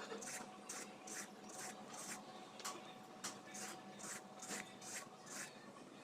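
Quiet, repeated short scraping strokes, about two a second, over a faint steady hum.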